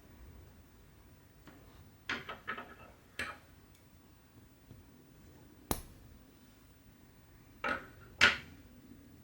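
Light clicks and taps of small hard objects being handled and set down, about six in all, spread unevenly, the last and loudest near the end.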